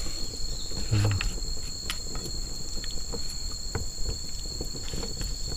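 Insects chirping in a steady, high-pitched drone, with scattered light clicks and taps over it.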